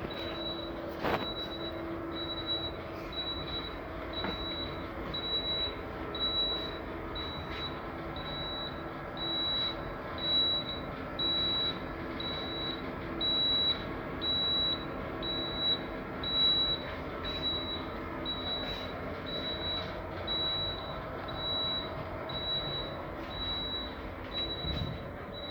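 Steady machinery drone with a high-pitched electronic beep repeating about once a second.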